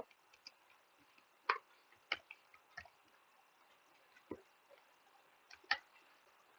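Scattered computer keyboard key presses: about five sharp clicks, irregularly spaced and a second or so apart, over faint steady hiss.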